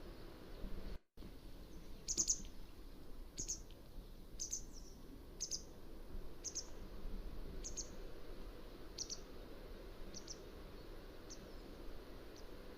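Mountain wagtail calling: a series of about ten short, high notes, roughly one a second, growing fainter toward the end, over a low steady background hiss. The audio drops out briefly about a second in.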